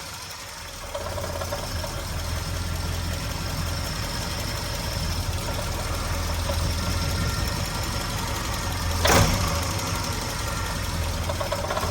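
Triumph Spitfire 1500's 1.5-litre four-cylinder engine idling below about 900 rpm with a rattle that shows only at low rpm; the owner has ruled out ignition, water pump, alternator and a loose pulley and suspects something inside the engine. A single sharp click about nine seconds in.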